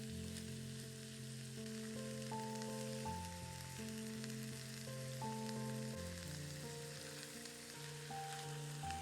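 Food sizzling and crackling in a hot frying pan, under soft background music of slow, held notes.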